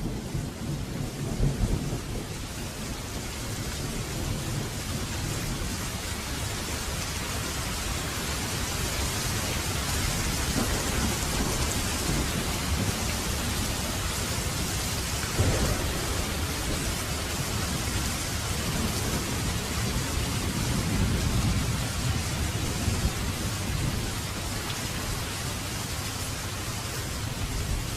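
Heavy rain falling steadily, with thunder rumbling at intervals and a sharper crack about halfway through.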